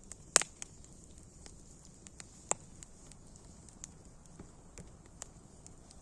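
Campfire crackling: scattered sharp pops of burning wood, the loudest about half a second in and another at about two and a half seconds, over a faint steady hiss.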